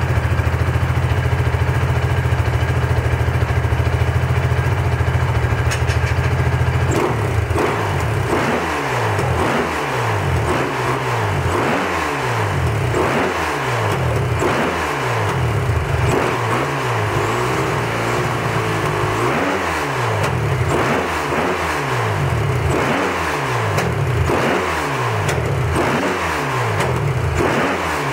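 Beta dirt bike engine idling steadily, then from about seven seconds in the throttle is blipped over and over, about once a second, each rev rising and dropping back.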